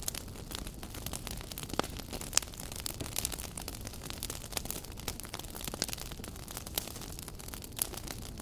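Fire in a fireplace crackling: irregular sharp pops and snaps over a steady hiss and low rumble of the flames, with one louder pop about two and a half seconds in.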